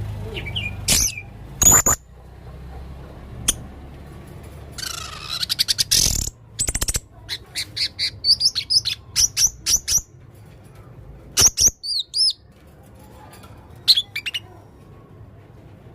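Male blue-crowned hanging parrot (serindit) calling: sharp, high chirps and squeaky notes. About seven seconds in comes a fast run of short notes.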